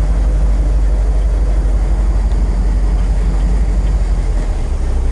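Crate 350 cubic-inch V8 of a 1967 Chevrolet El Camino running steadily at low speed, a continuous low rumble.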